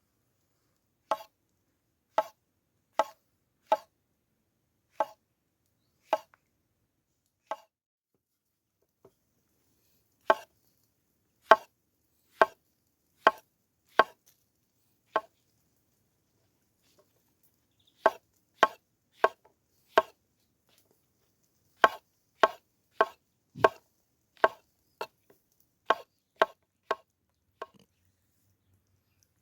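A knife chopping on a cutting board: single sharp knocks, one every half second to a second, in three runs with short pauses between them.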